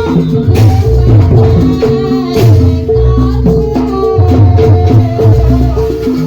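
Jaranan dance accompaniment music: a Javanese ensemble of drums and tuned gong percussion playing a driving, steady rhythm over a held ringing tone, with a wavering melodic line on top.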